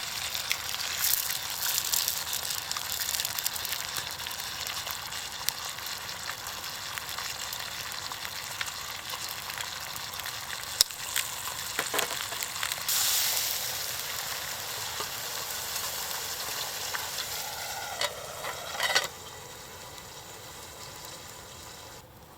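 Food sizzling in a frying pan over a campfire, with scattered sharp clicks. Near the end there is a short scraping, and then the sizzle drops to a much quieter hiss.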